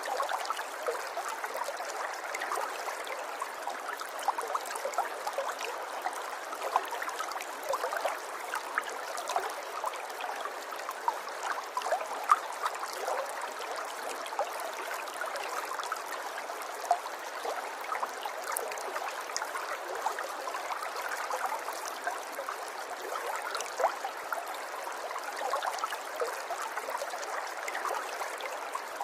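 River water flowing and babbling steadily, with many small quick splashes and gurgles over a light, even rush.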